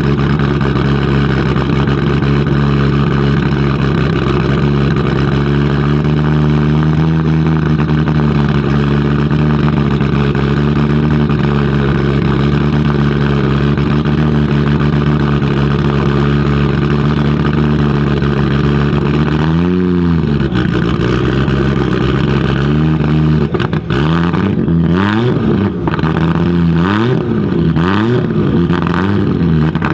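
Audi Sport Quattro S1 E2's turbocharged inline five-cylinder engine idling at a steady pitch. About two-thirds of the way in it is blipped once. From near the end it is revved in a quick series of throttle blips, about one a second, each rising and falling in pitch.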